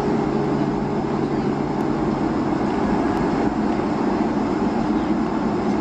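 Steady engine and rushing-air noise inside the cabin of a Boeing 757 taxiing after landing.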